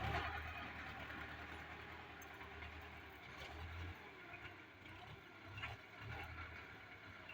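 Tractor engine running with a low, steady rumble that swells and eases a few times.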